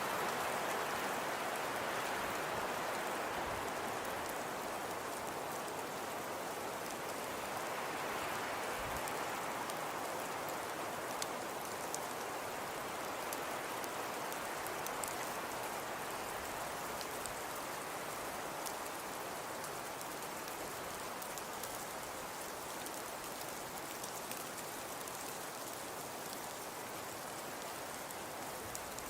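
Fireplace crackle ambience: a steady soft hiss with scattered faint small pops and ticks, easing slightly over time.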